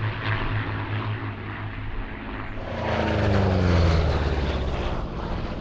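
The B-17 Flying Fortress Sally B's four Wright Cyclone radial engines droning in flight. About halfway through they sweep past closer, getting louder and dropping in pitch as the bomber goes by, then fade away.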